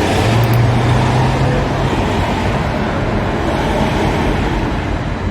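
Steady, loud mechanical noise like a motor vehicle running, with a low hum in the first two seconds, easing off slightly toward the end.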